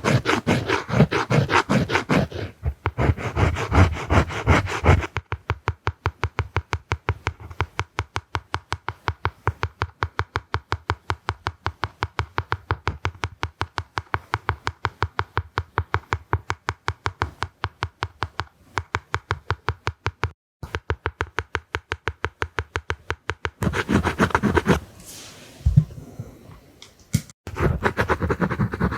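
Close-miked drawing strokes, a tool scratching in quick, even strokes over a surface at about five strokes a second, with a brief pause about twenty seconds in. The strokes are denser and scratchier in the first five seconds and again near the end.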